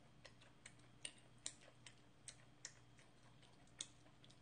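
Faint chewing with mouth closed: soft wet clicks about two or three times a second, pausing near the end, as chewy shucked clams are eaten.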